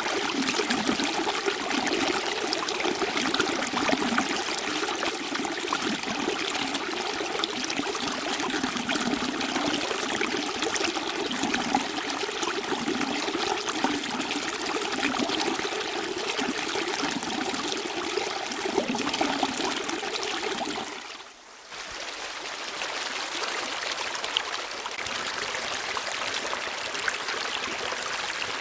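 Running water flowing steadily, a continuous rushing and trickling. About three quarters of the way through it dips away for under a second, then carries on a little lighter.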